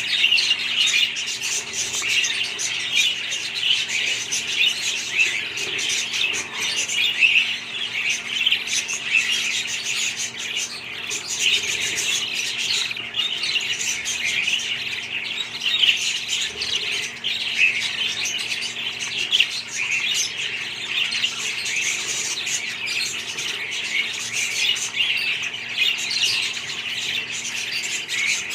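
A flock of budgerigars chattering and squawking without a break, a dense mass of short chirps and warbles, with a faint steady hum underneath.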